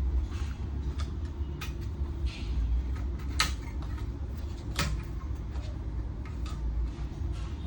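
Scattered sharp clicks and knocks of parts being handled while a monitor is taken apart to remove its power supply board, the two loudest about three and a half and five seconds in, over a steady low rumble.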